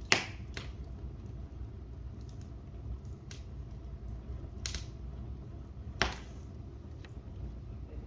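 Wood fire burning in a fireplace: a steady low rumble with scattered sharp crackles and pops. The loudest pop comes just after the start and another strong one about six seconds in.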